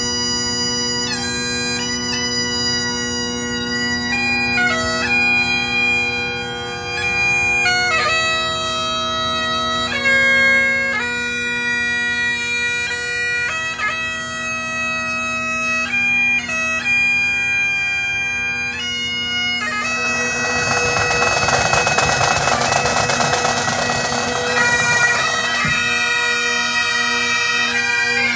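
Bagpipes playing a slow tune over a steady drone, the melody moving in held notes broken by quick grace-note flourishes. For several seconds past the middle, a rushing noise swells under the pipes and then fades.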